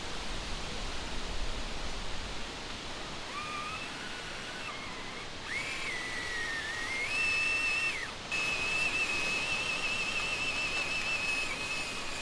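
High, thin whine of a 1/10-scale RC truck's electric motor, its pitch stepping and gliding with the throttle and then holding steady, over a steady hiss. The truck is straining in deep swamp mud.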